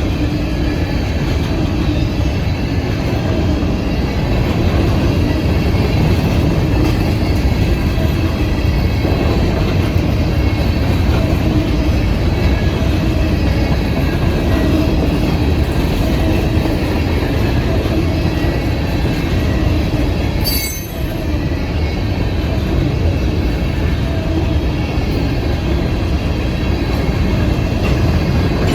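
Freight train cars rolling past at close range: a steady, loud rumble of steel wheels on rail with faint wheel-squeal tones. There is a brief dip and a sharp high-pitched squeak about two-thirds of the way through.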